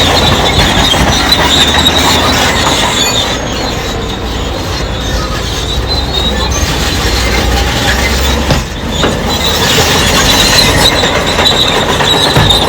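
Crawler bulldozer working, its diesel engine running with the steel tracks squealing steadily; the sound dips briefly about two-thirds of the way through.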